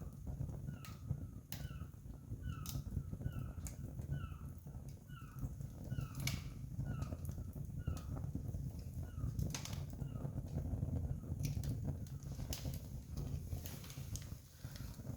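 Wood campfire crackling, with sharp irregular pops over a steady low rumble. A bird calls in a series of short falling chirps, about two a second, through the first half.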